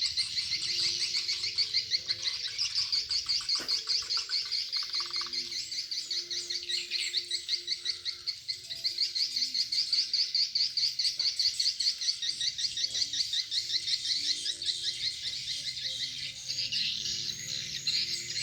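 Swiftlet calling sound (suara panggil) played to lure swiftlets: rapid, continuous twittering chirps, shifting to a different, wider chirping pattern near the end.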